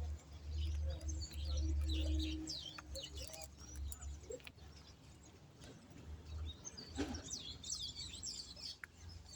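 Songbirds chirping and calling in quick, short notes, busiest about three seconds in and again near seven seconds. A low rumble, the loudest sound, runs through the first couple of seconds and then fades.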